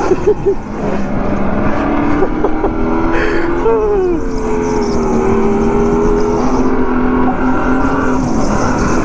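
Go-kart motors running hard on track, several engine tones overlapping and shifting in pitch with speed. There is a brief falling sweep a little past three seconds in.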